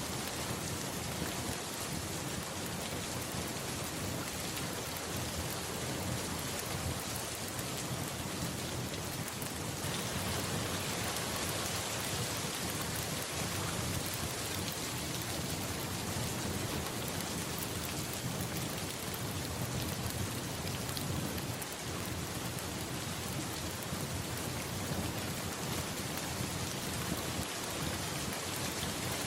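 Steady heavy rain, getting a little louder and brighter about ten seconds in, with a low rumble of thunder underneath.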